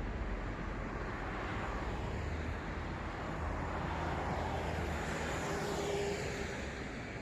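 Steady city road traffic: cars passing, their tyre and engine noise forming a continuous wash. One vehicle passes closer about five seconds in, its sound sliding down in pitch as it goes by.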